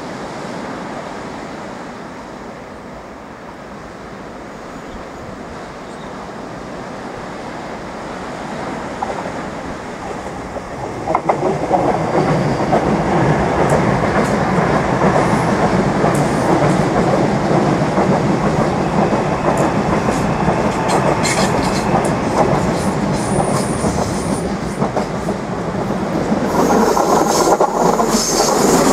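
Irish Rail 8520 class DART electric commuter train running past on the coastal line, its sound rising sharply about eleven seconds in and staying loud, with clickety-clack of the wheels over the rail joints and a brief faint high wheel squeal.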